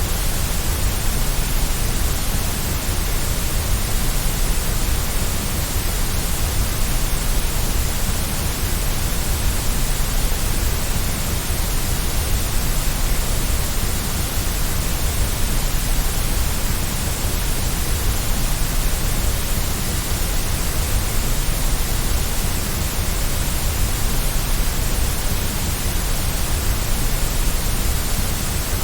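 Steady, unchanging white noise: an even hiss across the whole range, with no breaks or changes.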